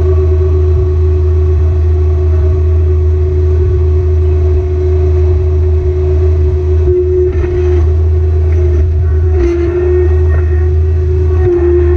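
Kubota BX-series subcompact tractor's three-cylinder diesel engine running steadily at a constant speed, with a few brief clanks about seven to nine and a half seconds in.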